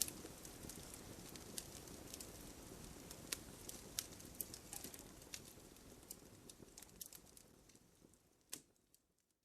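Campfire crackling: frequent sharp pops and snaps over the low rush of the flames, with one louder pop near the end. The sound then fades out to silence.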